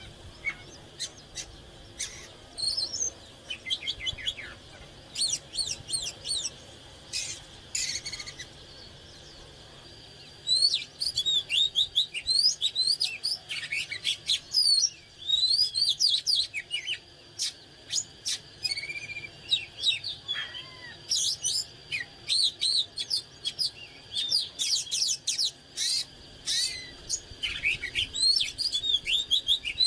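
Oriental magpie-robin singing a varied run of clear whistles, rising notes and quick chirps. The phrases come in spaced bursts for the first ten seconds or so, then become almost continuous.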